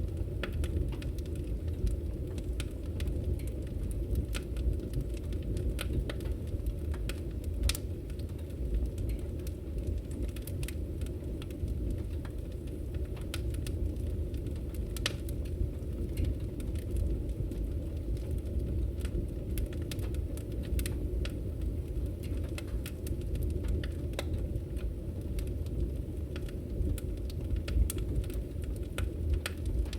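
Firewood burning in a fireplace: a steady low rumble with many irregular sharp crackles and pops from the burning wood.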